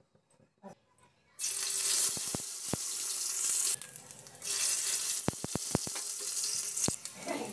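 Ginger and garlic pieces frying in hot oil in a pan: a loud sizzle starts suddenly about a second and a half in, eases briefly just before the middle and picks up again, with scattered sharp pops of spattering oil.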